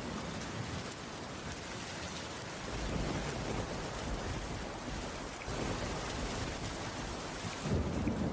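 Steady rain falling, with a low rumble of thunder underneath that swells again near the end.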